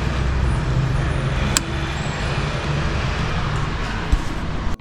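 Electric vacuum pump running steadily while evacuating a car's air-conditioning system, a motor drone with a low hum, plus a click and a knock. It drops away abruptly at the very end.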